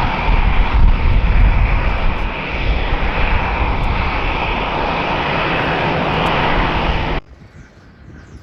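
Loud, steady engine noise of a passing airliner with a deep rumble underneath, cut off abruptly about seven seconds in. Faint bird chirps follow.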